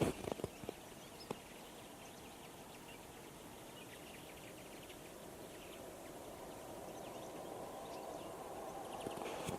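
A mixed flock of common linnets and European greenfinches twittering faintly with scattered short chirps. A few dull thumps come in the first second or so, and a low steady rumble grows louder in the second half.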